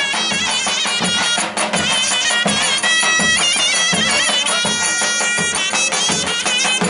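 Traditional Turkish folk wedding music: a shrill, heavily ornamented wind-instrument melody over a regular drum beat.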